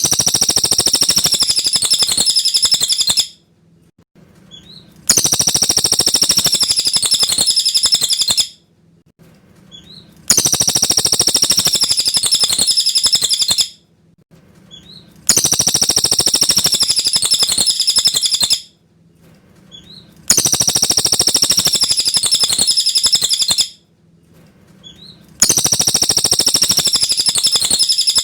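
Cililin bird singing clear, high-pitched twittering phrases of about three seconds, repeated every five seconds or so in what looks like the same phrase each time, as in a looped master-song track.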